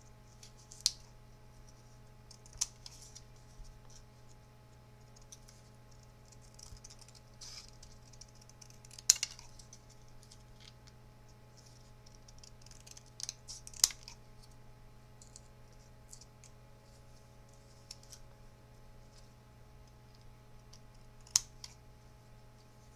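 Cardstock being cut and handled at a craft desk: a few sharp clicks and taps spread through, with soft paper rustling between them over a steady low hum.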